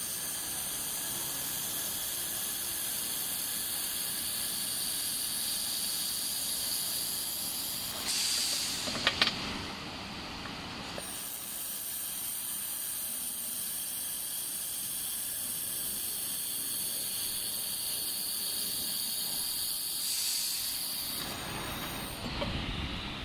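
2 kW handheld fiber laser welder at work on 2 mm stainless steel: a steady hiss of shielding gas at the welding nozzle. It breaks off about eight seconds in for a louder, rougher stretch with a few sharp clicks, then settles back into the steady hiss, and changes again near the end.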